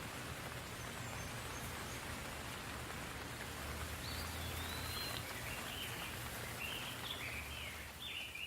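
Soft rain falling steadily. From about halfway through, a bird calls in a run of short chirps over the rain.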